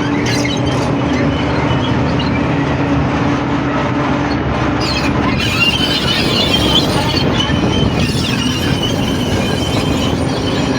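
Small diesel locomotive hauling a train uphill, its engine running steadily with the rumble of the cars on the track. About halfway through, the wheels begin squealing on the rails.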